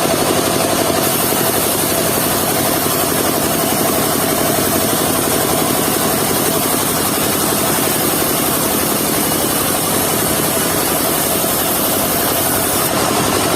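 Engine of a portable circular-saw sawmill running steadily.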